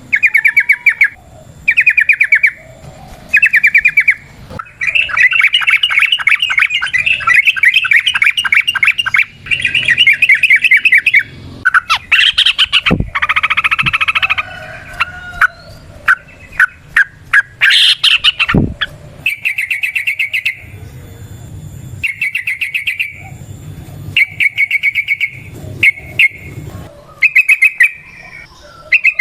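Yellow-vented bulbul (trucukan) singing: short bubbly phrases repeated every second or so, with long, fast rolling trills (the 'ropel' song) lasting several seconds near the middle, and a few sharp ticks between them.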